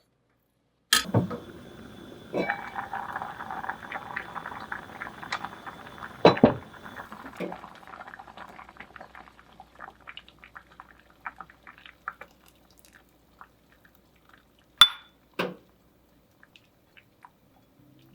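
Cookware in a home kitchen: a sharp clack, then liquid in a pan hissing and crackling, dying away over several seconds, with two sharp knocks of utensils near the end.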